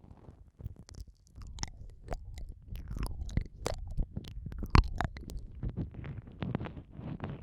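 Close-up wet mouth sounds against a microphone's ear: irregular lip smacks, tongue clicks and licking, with one sharp smack about five seconds in. Near the end they turn softer and more muffled.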